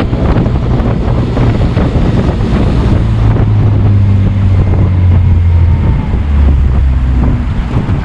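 Small fishing boat under way: a steady low motor hum that shifts pitch a couple of times, with heavy wind buffeting the microphone and the hull knocking on the chop, mostly in the first half.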